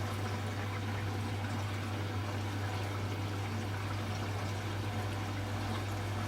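Hoover H-Wash 300 Plus washing machine during its rinse stage: water flowing in the machine, over a steady low hum.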